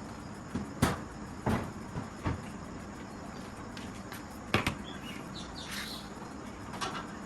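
Hand tools knocking and clanking during tractor tyre work: about four sharp knocks at uneven intervals, the loudest about a second in and again just past the middle.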